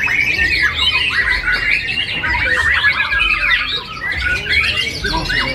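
Many caged songbirds singing at once: a dense, unbroken chorus of overlapping whistles, chirps and squawky trills.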